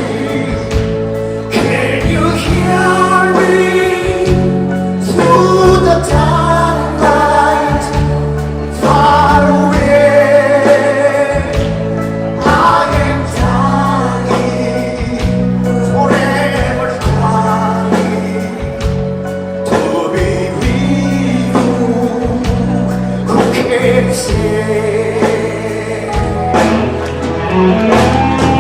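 Live band performance of a slow pop ballad: steady held bass notes under sung melody lines that keep going throughout.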